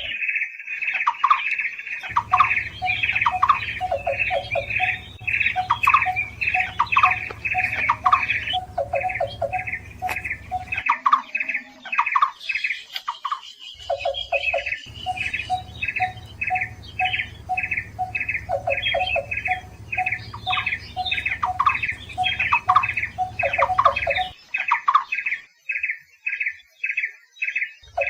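Barbets calling: a long, steady run of short repeated notes, with a second, lower series of notes woven in, as used in a lure and tutoring recording. A low hum sits underneath for parts of the stretch.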